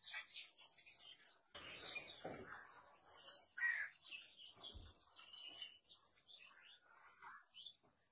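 Faint birdsong: many short high chirps and calls from several birds, with a brief rustle of handling about two seconds in.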